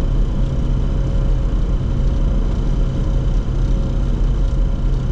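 Steady cockpit noise of a Bombardier Challenger 604 on final approach with gear down and flaps at 45: a constant low rumble of airflow and its GE CF34 turbofan engines, with a few faint steady tones over it.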